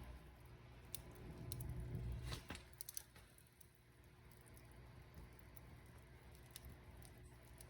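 Wood fire crackling in a fireplace: faint, with scattered sharp pops, several close together about two and a half to three seconds in, over a low rumble that drops away after that.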